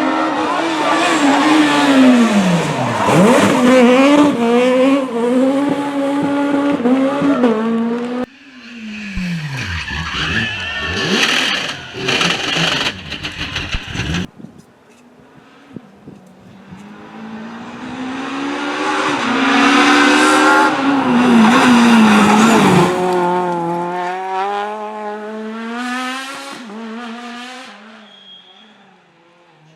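Rally cars passing at speed, three separate passes one after another. Each engine revs hard, rising and falling in pitch through gear changes, braking and the drop as the car goes by. The last car is heard coming up from faint to loud and then fading away.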